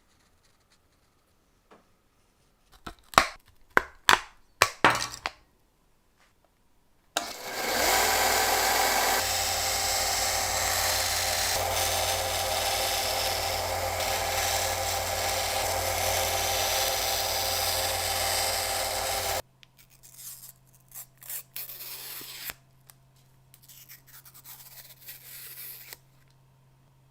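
A handful of sharp knocks, then a power tool starts and runs steadily for about twelve seconds before cutting off abruptly, followed by light scraping and ticking of hand work on metal parts.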